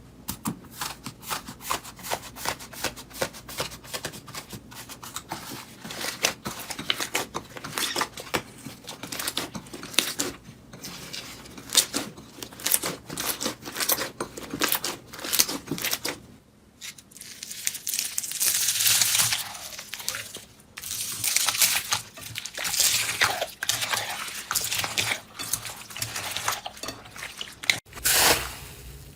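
Hands squishing and poking slime: rapid crackling and popping clicks, with longer hissing, tearing-like stretches in the later part.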